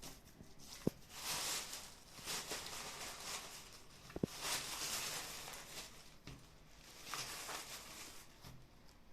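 Rustling and crinkling of packaging being handled and unwrapped, in swells about a second long, with a few light clicks and knocks.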